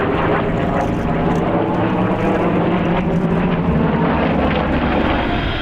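Piston-engined warbird propeller aircraft in flight, their engines making a steady drone.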